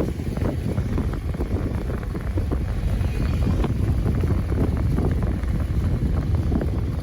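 Wind buffeting the microphone: a loud, ragged low rumble that starts abruptly just before and keeps going.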